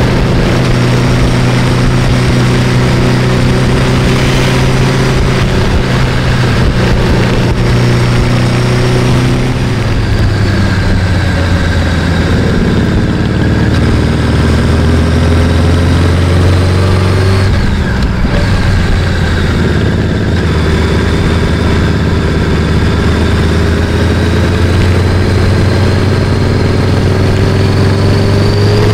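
Sport motorcycle engine running under way, with wind noise. The revs drop about ten seconds in, then climb steadily toward the end as the bike accelerates.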